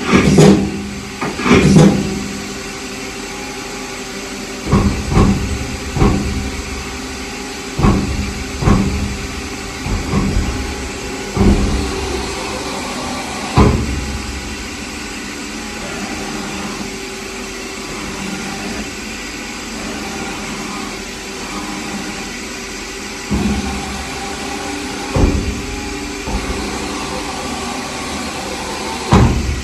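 DMG Gildemeister CTX-510 CNC turning center running: a steady machine hum with several steady tones. Sharp mechanical clunks come at irregular intervals, many in the first half, then a long steady stretch and a few more near the end.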